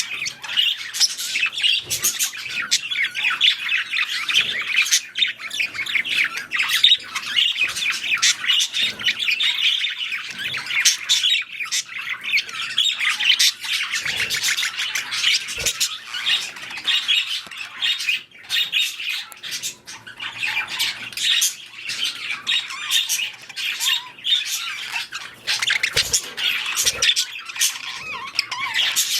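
Budgerigars calling in a dense, continuous chatter of rapid chirps and clicks.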